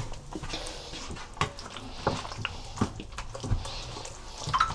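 Hands rubbing a thick peri peri masala into a raw whole chicken: irregular wet squelches and light taps.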